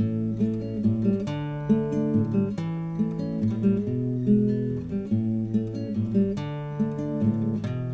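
Strummed acoustic guitar playing a chord progression in an instrumental break of a song, without vocals.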